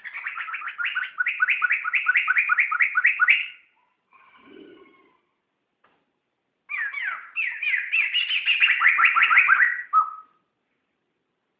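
Poksay (laughingthrush) singing two loud phrases of rapid, repeated whistled notes, about four a second, each phrase lasting about three and a half seconds. A brief quiet call falls in the pause between them.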